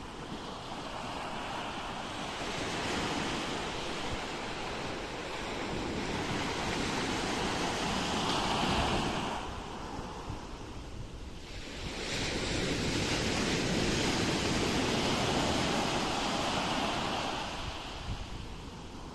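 Ocean surf: waves rushing in as a noisy wash in two long swells. The first builds to a peak about halfway through, then there is a short lull, and a second, longer swell follows and eases off near the end.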